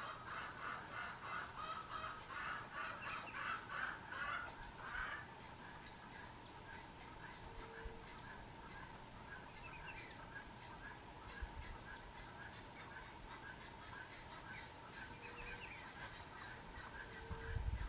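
White-eared puffbird singing a rapid, rhythmic series of repeated notes that stops about five seconds in. Afterwards only faint scattered calls remain over a steady high insect trill.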